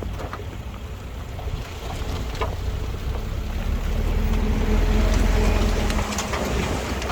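Heavy diesel construction machinery running with a low engine rumble that grows louder about four seconds in and eases off near the end, with a few scattered knocks.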